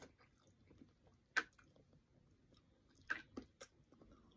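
A person chewing and eating, with wet mouth clicks and smacks: a sharp one about a second and a half in, and a cluster of them near three seconds in.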